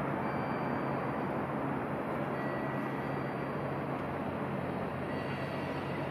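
JR Central 315 series electric train pulling into a station platform: a steady low rumble, with faint thin high tones that come and go.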